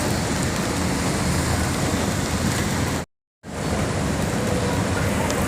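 Heavy storm downpour of rain and hail in a steady hiss, broken by a short silent gap about three seconds in.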